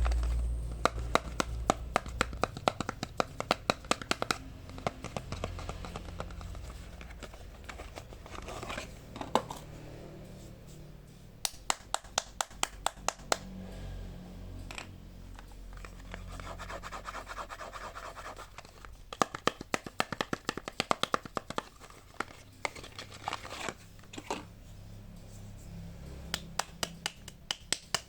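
Quick runs of tapping on soap packaging, with scratching between the runs.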